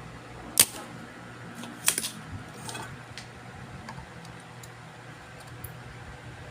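A few sharp clicks and clacks over a steady low hum, the loudest about half a second in and a quick pair around two seconds in, with fainter ticks later.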